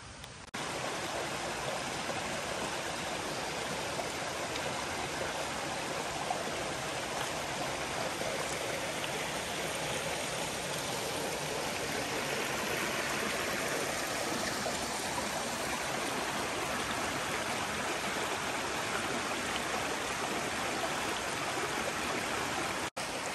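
Shallow mountain river running low over rocks: a steady rush of flowing water. It starts abruptly about half a second in and drops out for an instant near the end.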